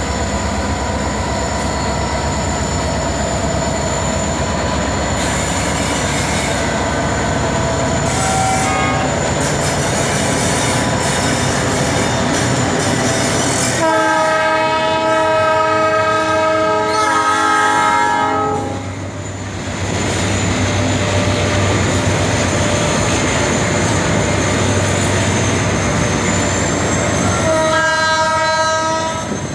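Diesel locomotives running with a steady low engine rumble while a multi-note air horn sounds: one long blast about halfway through, a shorter blast right after it, and another blast near the end.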